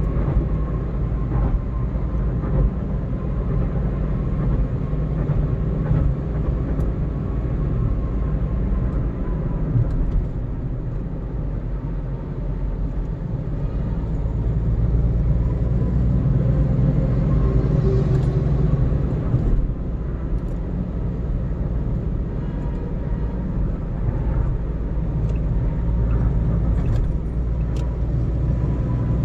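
A car driving at road speed: a steady low engine and tyre rumble that swells louder for a few seconds midway.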